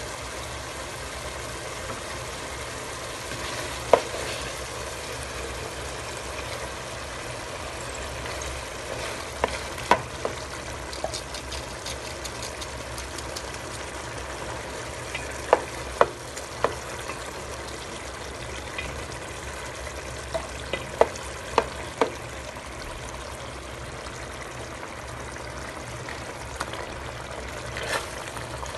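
Chicken pieces sizzling steadily in butter in a steel pot as cream is spooned in and stirred, with scattered sharp clicks of the spoon knocking against the pot.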